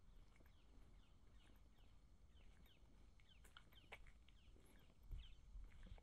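Faint birds chirping: many short, quick falling notes, scattered irregularly over near-quiet outdoor ambience.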